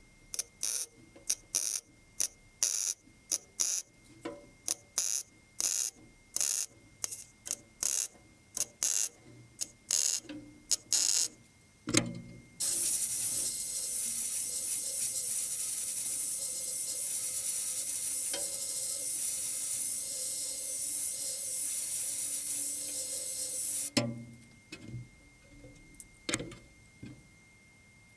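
Welder tacking the sheet-steel repair patch into the inner wing: a quick series of short, crackling tack welds for about twelve seconds, then one continuous weld run of about eleven seconds, then a few more short tacks near the end. The tacks are laid one beside another so they join up into a seam.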